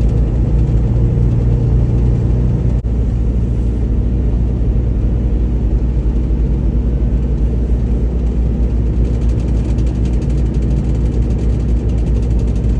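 Semi-truck's diesel engine and road noise heard inside the cab, a steady low drone.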